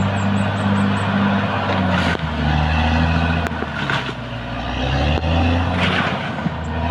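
Caterpillar D6R XL bulldozer's diesel engine running. Its note drops about two seconds in and rises again near the end, with a few short knocks.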